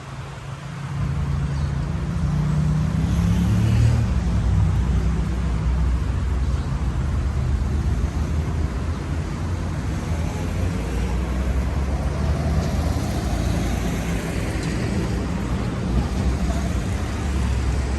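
Road traffic: a passing vehicle's engine rises about two to four seconds in, then a steady low rumble of traffic.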